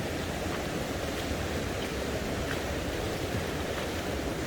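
Heavy rain falling steadily, an even hiss with a few faint drop taps.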